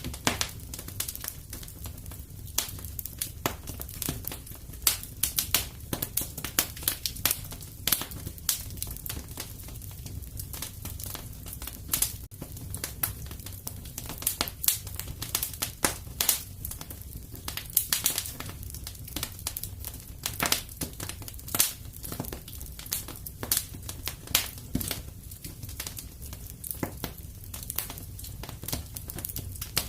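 Wood fire crackling in a fireplace: irregular sharp snaps and pops, several a second, over a low steady rumble of the flames.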